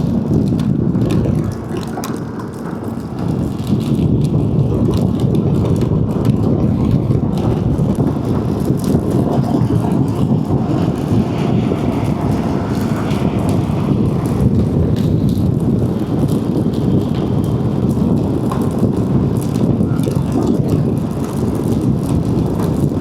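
Wind rushing over a helmet-mounted microphone on a moving motorcycle, with engine and road noise underneath, steady except for a brief dip about two seconds in.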